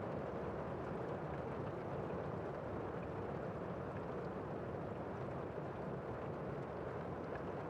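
Steady rain falling, heard as a dense, even rush, fuller and lower than a light patter, with no single drops standing out.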